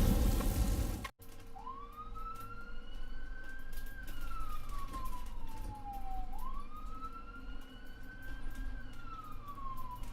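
Loud noise cuts off sharply about a second in. An emergency vehicle siren then wails slowly, rising and falling twice.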